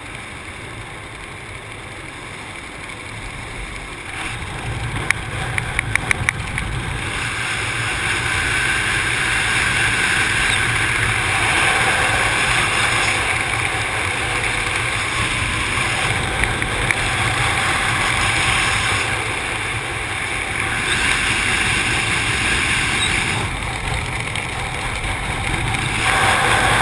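Rushing airflow buffeting the camera of a wingsuit flyer in flight. The roar builds over the first several seconds and then holds, with a quick run of sharp clicks about five to six seconds in.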